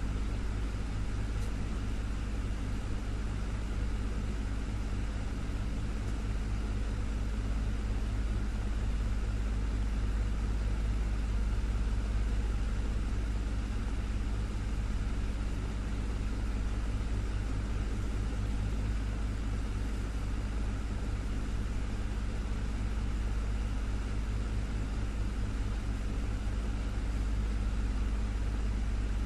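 Desktop fan running steadily, a low hum with an even whoosh of moving air.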